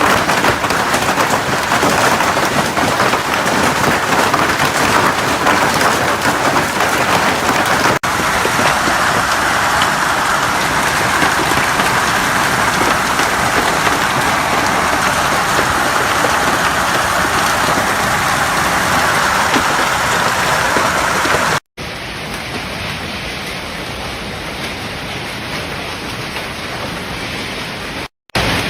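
Heavy storm precipitation pelting down on surfaces, a dense steady hiss. The sound changes abruptly about 8 s in, then after a brief dropout about 22 s in it carries on quieter, with another short break near the end.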